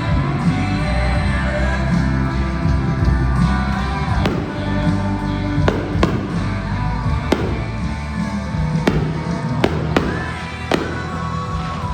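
Fireworks going off, a series of sharp bangs at irregular intervals starting about four seconds in, over loud music.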